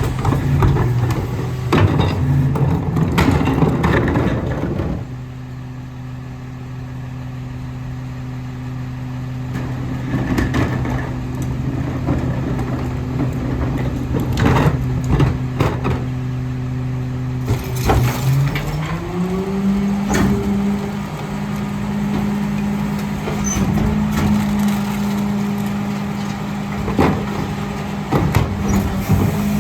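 Garbage truck's diesel engine idling, then revving smoothly up about two-thirds in and holding at a higher steady speed, the throttle advance that runs the rear loader's packer. Throughout, bins and recyclables bang and clank into the hopper, most densely in the first few seconds.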